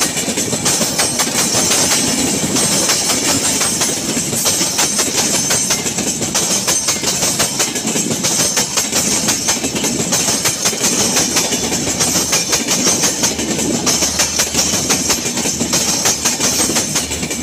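Intercity passenger train coaches rolling past close by, wheels clicking rapidly over the rail joints, with a steady high hiss of steel wheels on rail.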